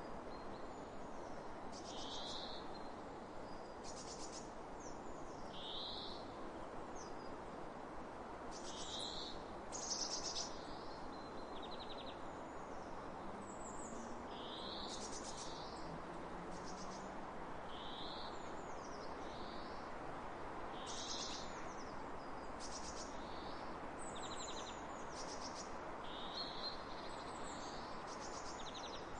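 Songbirds calling: short swooping chirps and buzzy trills repeat every second or two throughout, over a steady rushing of wind across open fields.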